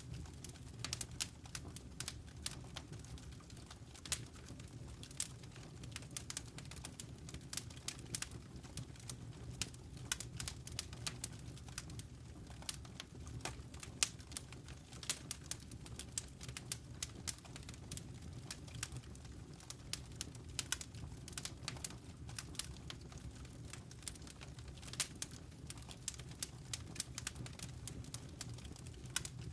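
Fire crackling in a fireplace: irregular sharp snaps and pops, several a second, over a low steady rumble of burning.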